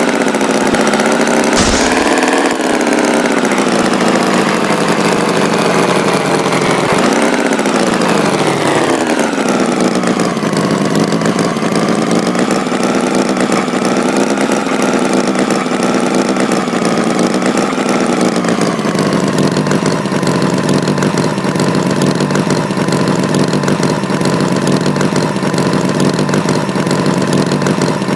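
Tractor engine running continuously, its pitch wavering, rising briefly and then dropping about eight to ten seconds in, before settling into a steady run. There is a sharp click early on.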